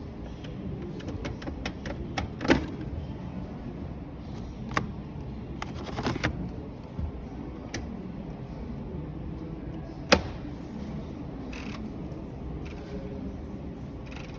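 Clicks and knocks of display washing machine doors and controls being handled: a quick run of small clicks early, then separate sharper knocks, the two loudest about two and a half and ten seconds in, over steady background noise.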